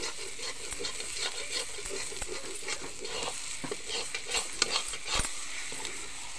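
Ground green-pea paste for nimona sizzling as it fries in oil in a steel kadhai, with irregular scrapes and clicks of it being stirred against the pan. It is being fried (bhuna) until it turns reddish-brown.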